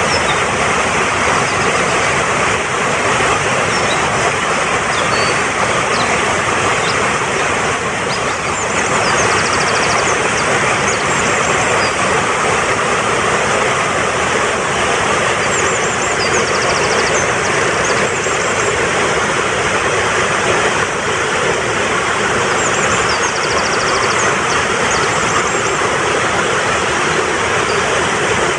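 Fast-flowing mountain stream rushing steadily. Small birds chirp high above it in short, quick trills several times.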